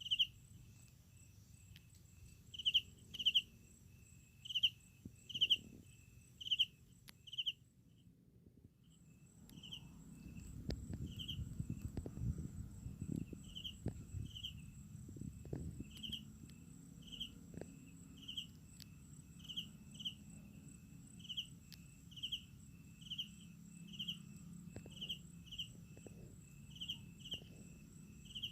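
Night insects, crickets, chirping: short chirps repeating about twice a second over a steady high-pitched trill. The sound cuts out briefly about eight seconds in, then low rumbling handling noise with a few clicks runs under the chirping for several seconds.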